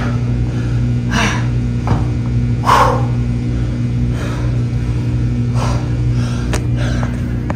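Heavy, strained breathing of a person working through a set of split squats, a hard breath every second or so, over a steady low electrical hum.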